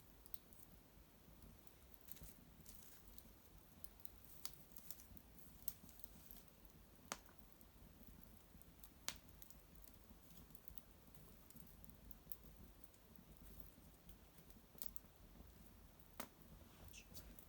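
Small fire of dried maple twigs crackling faintly: scattered sharp pops and ticks every second or two over a low hush, with the two loudest pops about seven and nine seconds in.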